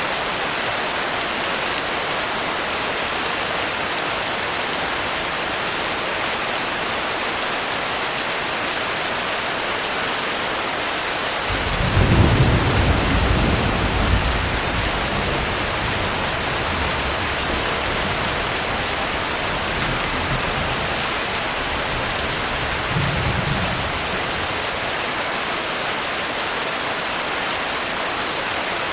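Steady heavy rain with a deep roll of thunder rumbling up about twelve seconds in, loudest for a couple of seconds and then fading, and a smaller distant rumble about ten seconds later.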